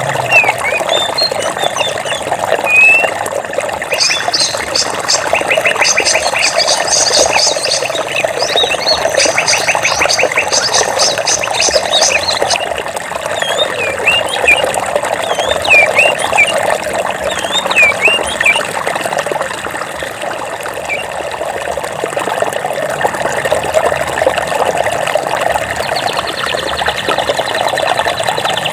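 Running water, a stream or small cascade, with birds chirping over it in short rising and falling calls. From about four to twelve seconds in, a fast pulsed trill joins in and then stops abruptly.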